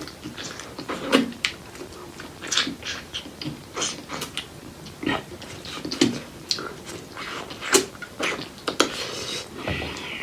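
Close-miked mouth sounds of eating spicy pork leg curry with rice: wet chewing and lip smacking, an irregular run of sharp clicks and smacks, with a short hiss near the end.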